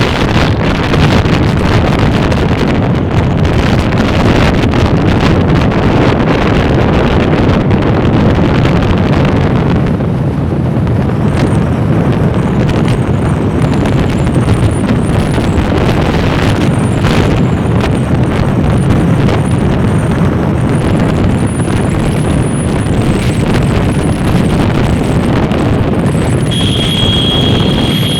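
Loud, steady rumbling noise of wind buffeting the microphone, mixed with vehicle noise, with a brief high steady tone near the end.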